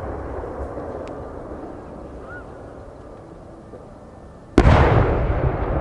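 Large 10-go (shakudama) firework shell bursting with a sudden deep boom about four and a half seconds in, rumbling on afterwards. Before it, the echo of an earlier shell's burst fades away.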